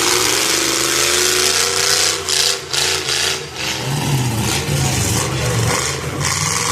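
Demolition derby car engines revving and running, one engine's pitch climbing in the first second or two.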